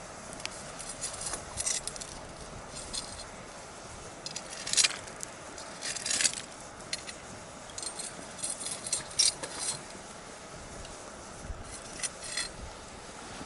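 Bonfire crackling: scattered sharp pops and snaps, some in quick clusters, over a steady low hiss, with the loudest pops about five and six seconds in.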